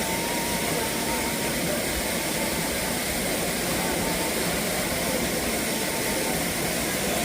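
Steady rushing of falling water from a mountain waterfall, an even hiss without a break.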